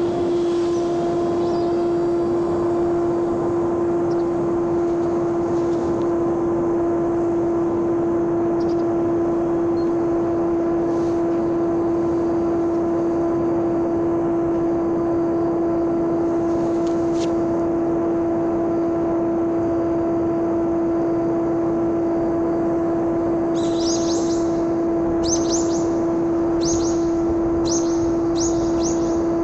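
Homemade RC airplane's electric motor and propeller running at a steady pitch in powered flight, a constant hum with overtones. A few short, high bird chirps come near the end.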